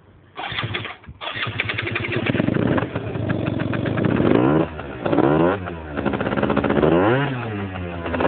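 Yamaha Aerox 50cc two-stroke scooter engine with a Gianelli Extra exhaust starting up about half a second in, cutting out briefly and catching again, then being revved several times, its pitch rising and falling.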